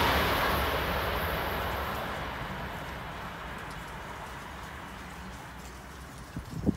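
Amtrak Acela high-speed electric trainset pulling away after passing, its rush of wheel and rail noise dying away steadily. A few short, separate sounds come in near the end.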